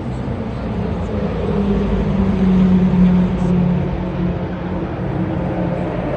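Historic race car engine passing at speed, growing louder to a peak about halfway through and then fading as it goes by.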